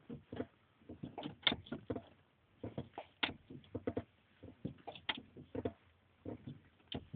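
Truck pedals being pumped hard, the brake pedal above all: a run of short, irregular clunks and creaks, a few a second.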